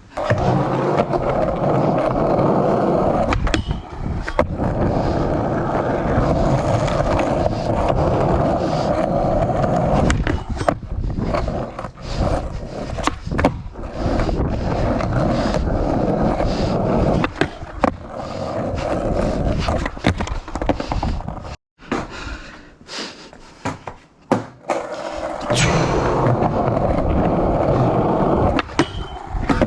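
Skateboard riding: polyurethane wheels rolling over the ground in long runs, with many sharp clacks of the board popping off the tail and slapping down on landings.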